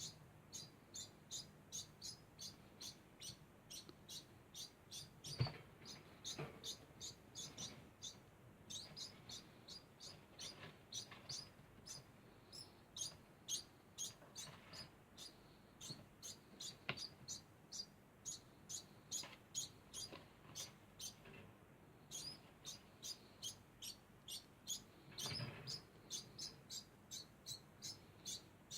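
Degu chirping: short high-pitched chirps repeated steadily, about two to three a second, without pause. A sharp knock about five seconds in and a softer thump near the end.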